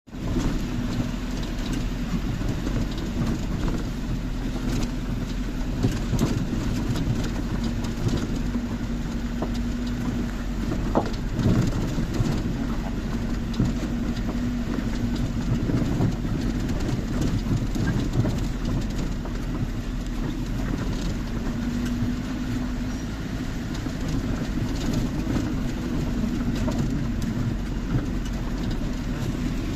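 Steady rumble of a moving vehicle, with a low continuous hum and scattered light rattles and clicks.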